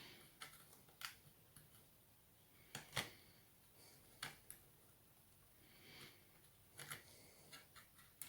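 Irregular faint clicks and taps of hands and tools on a laptop's plastic and metal parts during motherboard removal, the sharpest about three seconds in.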